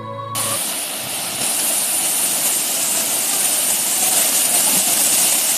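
Waterfall: a loud, steady rush of falling water, cutting in abruptly about half a second in as background music stops.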